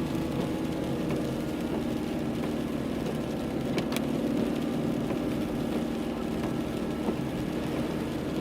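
Car engine running steadily, a low even hum, with a single short click about halfway through.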